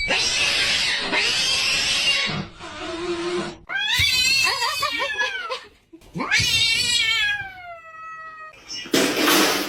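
Cat caterwauling: after a stretch of harsh, hissy noise come two long yowls, the first wavering in pitch and the second falling away.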